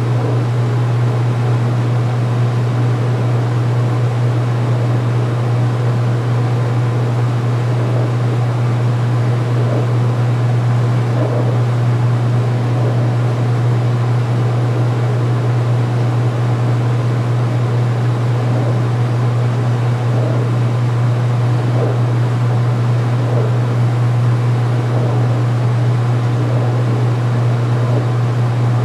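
2016 Speed Queen belt-drive top-load washer in its final spin: a steady, loud motor hum with a wash of noise from the spinning tub.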